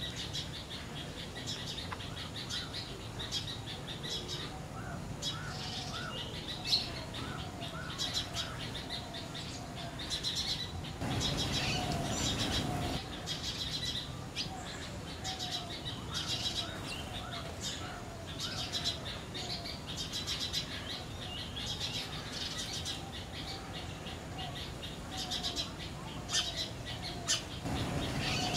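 Birds calling in a garden: runs of a short note repeated over and over, with many higher chirps over them, and a louder stretch of noise around the middle.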